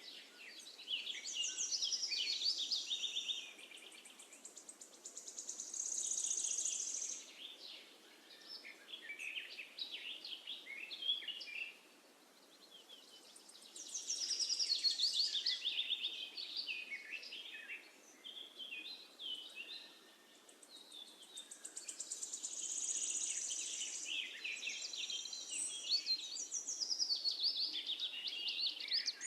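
Songbirds singing, phrases of quick high chirps and trills that come and go every few seconds, over a faint steady background hiss.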